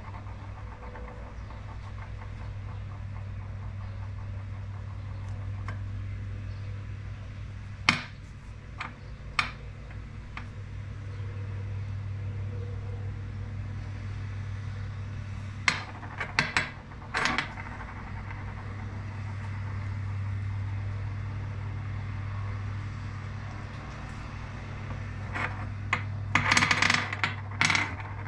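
Small lathe-turned spinning game pieces clicking and clattering on a hard surface in three short bursts as they are spun and settle, over a steady low hum.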